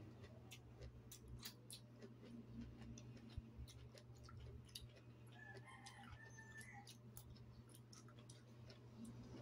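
Sea grapes (lato seaweed) being chewed, with many faint scattered clicks and pops. A distant rooster crows once, about five and a half seconds in.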